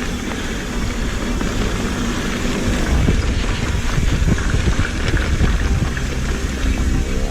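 Mountain bike riding down a wet dirt trail: wind rushing over the camera microphone, with the tyres rolling and the bike rattling and knocking over bumps. It gets louder about three seconds in.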